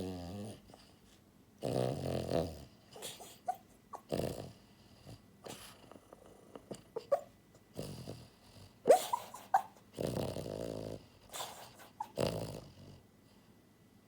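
French bulldog snoring in her sleep: loud snores roughly every two seconds, with short high squeaks between them, stopping near the end.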